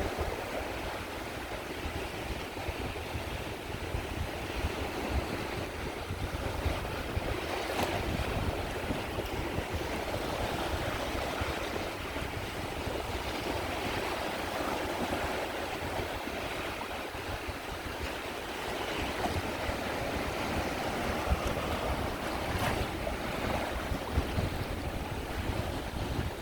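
Sea waves washing onto the shore, the surf swelling and easing in slow surges, with wind buffeting the microphone as a low rumble.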